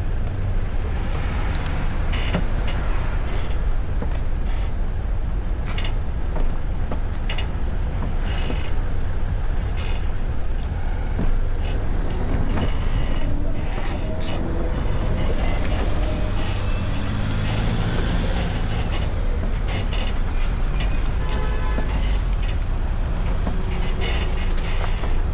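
Steady low rumble of road and traffic noise from a VMoto Stash electric motorcycle riding through city traffic, with other vehicles' engines around it. About two-thirds of the way through, a nearby engine's pitch rises and falls.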